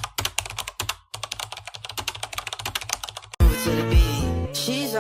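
Rapid computer-keyboard typing clicks, several a second, over a low hum, cutting off about three and a half seconds in as music with a heavy bass starts abruptly.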